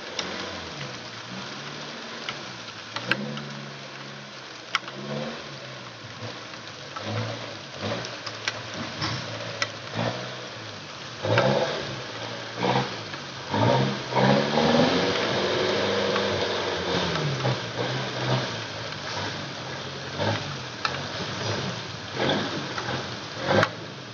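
Dump truck's diesel engine revving up and falling back again and again as it labours through deep mud, loudest a little under halfway through, with scattered sharp knocks and clunks.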